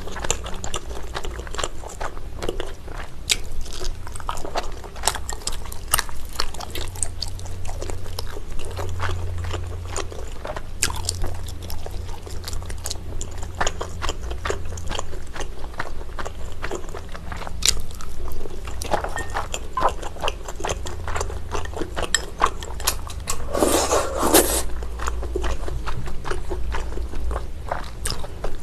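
Close-miked chewing of chewy garaetteok rice cakes in jjajang sauce: soft, sticky, wet mouth sounds with many small clicks, and one louder noise lasting about a second near the end.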